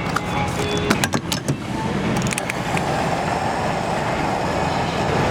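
Steady road and engine noise inside a moving car, with a few sharp clicks or knocks in the first second or so.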